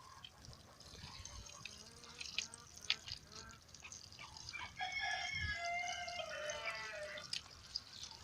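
A rooster crowing once, a long call of about two and a half seconds starting about halfway through, with a few light knocks before it.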